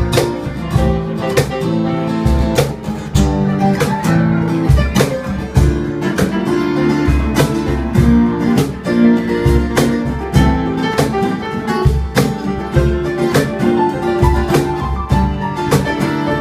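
A band playing an instrumental intro: guitar over bass and drums, with a steady beat.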